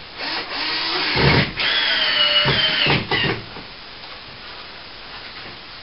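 Cordless drill driving a screw through plasterboard into the ceiling, running for about three seconds with a brief break partway, its motor whine bending in pitch, then stopping.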